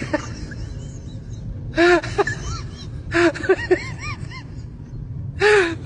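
An animal calling in short cries that rise and fall in pitch, in three groups, over a steady low rumble.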